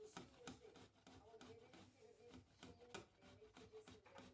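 Faint talking in a small room, with scattered light clicks and taps.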